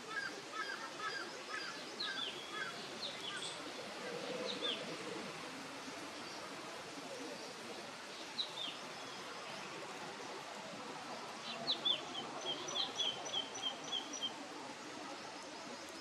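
Wild birds chirping and calling in short, sharp notes over a steady background hiss, with a quick run of repeated chirps late on.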